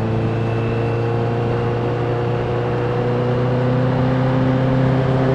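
Honda CBR sport bike's inline-four engine running at steady cruising speed, its pitch climbing slowly as the bike gently gains speed, with road and wind noise.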